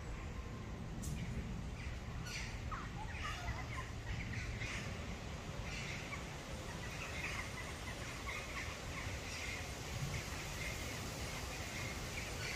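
Birds chirping and twittering in short quick calls, busier in the second half, over a steady low rumble.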